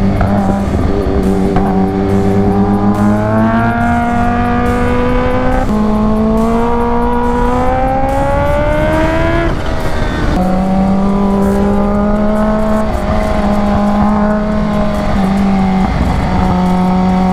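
Kawasaki Ninja H2's supercharged inline-four running at riding speed, heard on board. It holds steady, climbs in revs for a few seconds in the middle, then drops sharply at an upshift about ten seconds in and settles into a steady cruise.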